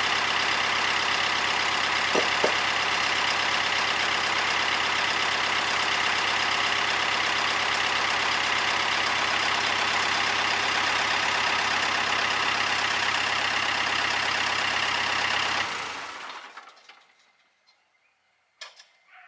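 Kubota D1105 three-cylinder diesel engine of a MadVac rider vacuum running steadily, then shut off about three-quarters of the way through and running down over about a second. A sharp knock near the end.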